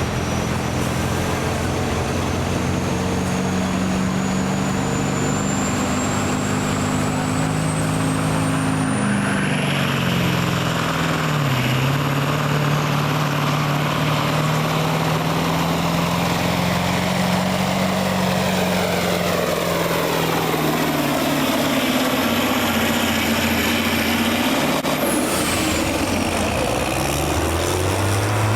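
Engine of a competition pulling truck or tractor running hard and loud under load, with a high whistle climbing in pitch over the first third. About two-thirds of the way in, the engine note drops and the whistle falls away.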